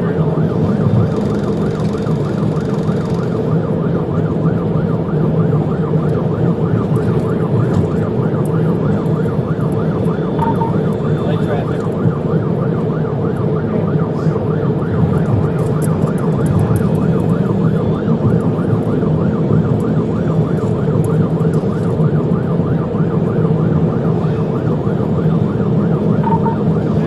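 Police car siren cycling rapidly up and down in a fast yelp, over steady engine and road noise from the pursuing car.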